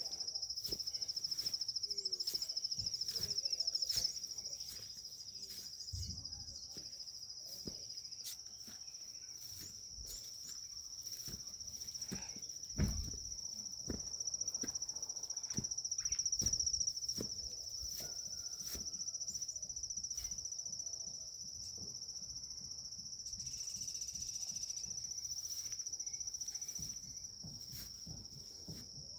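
Insects, likely crickets, trilling steadily at a high pitch without a break, with scattered soft clicks and knocks around them. A single louder thump comes about 13 seconds in.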